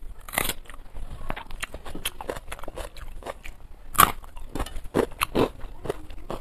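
A person chewing rice and fried food eaten by hand: a run of short wet mouth clicks and smacks, with one louder bite about four seconds in.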